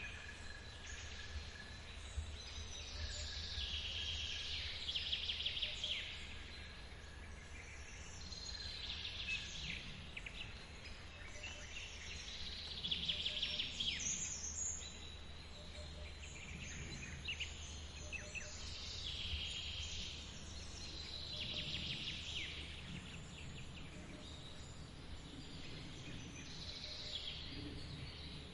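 Birds singing short phrases that recur every few seconds over the steady rush of a forest waterfall.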